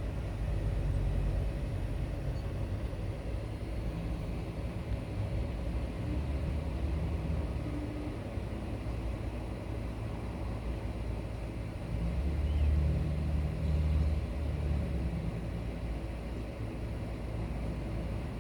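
Steady low outdoor rumble, like distant road traffic, swelling for a few seconds about twelve seconds in.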